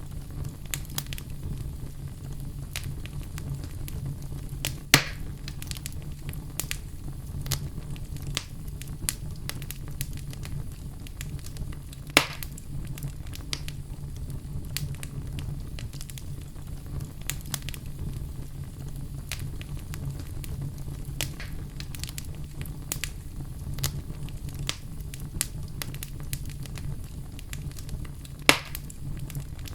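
Wood fire crackling, with scattered small snaps over a steady low rumble. Three louder pops stand out: about five seconds in, about twelve seconds in, and near the end.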